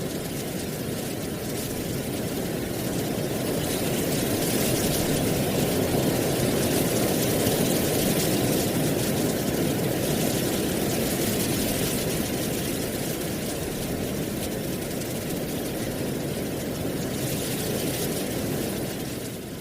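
Wind blowing through dry autumn leaves: a steady rushing rustle that swells for several seconds and then eases back.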